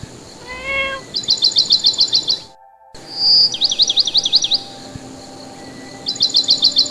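A bird's chirping: two bursts of rapid high chirps, about eight a second, each lasting about a second, the pattern repeating about three seconds apart. Soft sustained ambient music tones come in about halfway through.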